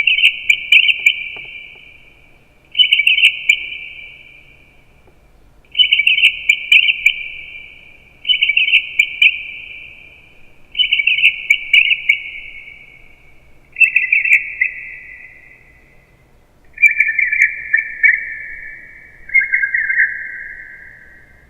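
Bird-like chirping made from a recording of human speech that has been artificially altered. There are eight chirpy phrases, each a second or so long, spaced about two to three seconds apart, and each is a little lower in pitch than the one before.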